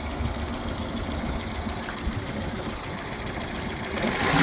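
1999/2000 Mercury 9.9 hp four-stroke outboard (Yamaha-built) running steadily at idle, getting clearly louder near the end. It runs properly without the choke now that its carburettor has been cleaned and tuned.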